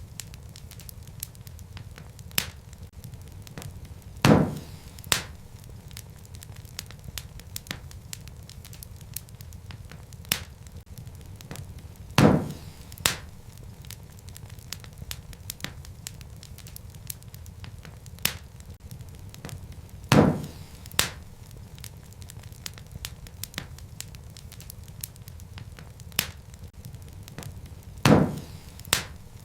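Wood fire crackling in a fireplace over a steady low rumble of flames, with small snaps throughout. About every eight seconds comes a louder pair of pops, under a second apart.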